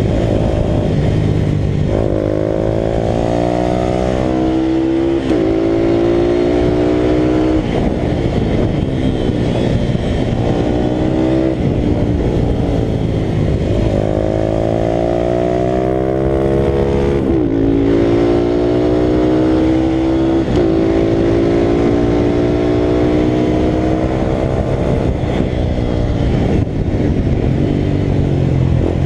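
Italika RT200 motorcycle engine running hard during a race. The revs climb steadily and then drop sharply, over and over, as the bike is run through the gears and the throttle is eased for corners.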